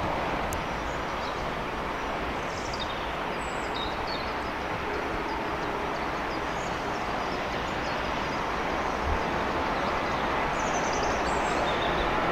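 Steady distant rumble of rail and road traffic, swelling a little near the end as a train draws closer, with a few bird chirps over it.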